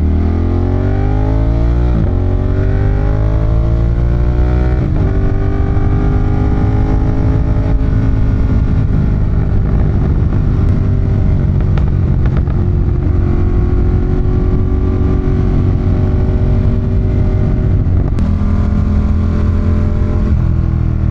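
Ducati Monster 1200's L-twin engine accelerating hard through the gears, its pitch climbing and dropping back at upshifts about 2 and 5 seconds in. It then holds a near-steady cruise under wind rush, with another gear change near the end.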